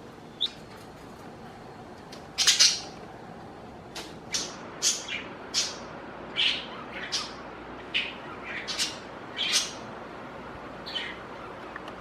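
Pet budgerigar calling: one loud call about two seconds in, then a quick run of short, sharp chirps, about two a second, and a last one near the end.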